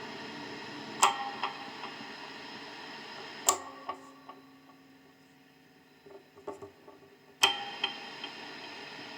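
Steady white-noise hiss from a Schecter Banshee Mach 6 guitar through its amplifier, broken by sharp switch clicks about a second in, at about three and a half seconds, and near the end. After the middle click the hiss drops away to a faint hum, and it returns with the last click. The hiss is a fault of this guitar's Sustainiac circuit, heard when the Sustainiac is switched off and the pickup selector is in the middle or neck position.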